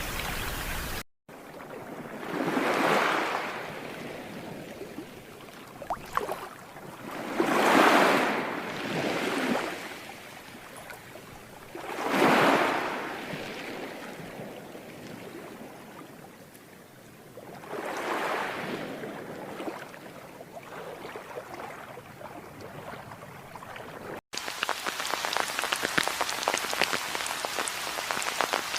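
Nature-sound track of running water and rain. A steady hiss of rain opens it, then after a cut four slow surges of water rise and fall, each about two seconds long and four to six seconds apart, like waves washing in. After another cut near the end comes a steady, crackling patter of rain.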